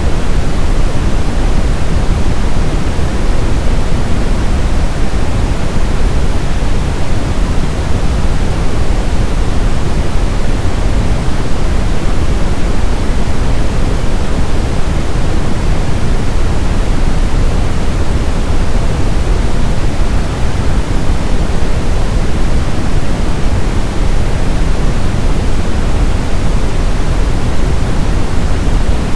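Brown noise, a synthetic noise signal: a steady, loud rushing with most of its energy in the low end, like a deep rumble. It does not change.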